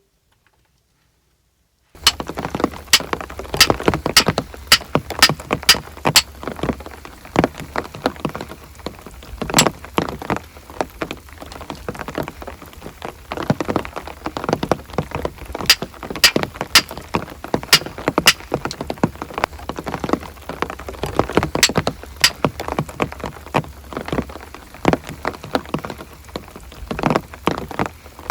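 Rain falling steadily, with many loud individual drops striking a surface close by. It starts abruptly about two seconds in, after near silence.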